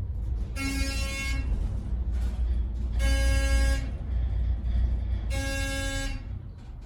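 Three long, identical horn-like beeps about two and a half seconds apart, each lasting under a second, over a steady low rumble.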